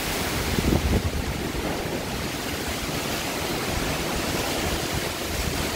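Heavy rain pouring down in a steady, dense hiss, with a few brief low rumbles about a second in.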